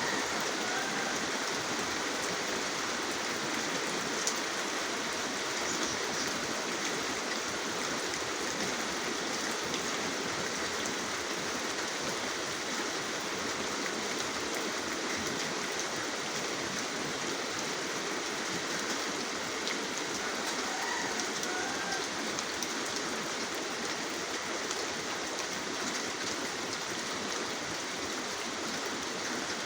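Steady rain falling, a dense even hiss with scattered drops pattering.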